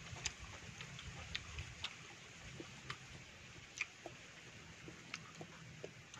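Mouth sounds of someone eating fruit: irregular wet clicks and smacks from chewing, about one or two a second, over a low steady hum.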